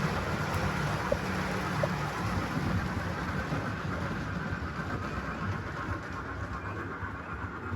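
A model train running along the layout's track: a steady rumble of motor and wheels on rail, easing off a little in the second half.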